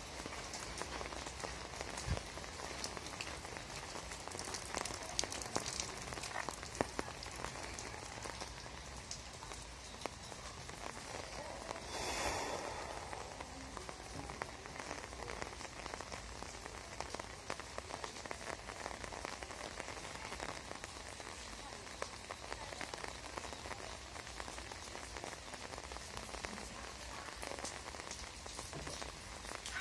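Steady rain falling, a constant hiss with many individual drops landing close by. About twelve seconds in there is a brief louder rush lasting about a second.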